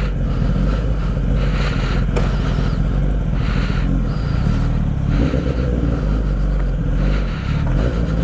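Kawasaki ZX-10R sport bike's inline-four engine running steadily at low speed as the motorcycle rolls along.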